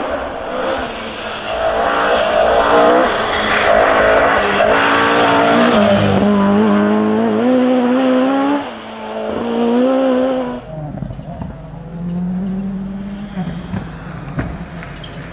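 Rally car engine at high revs, its pitch rising and falling through gear changes for several seconds. About ten seconds in it drops away to a quieter, steadier engine note.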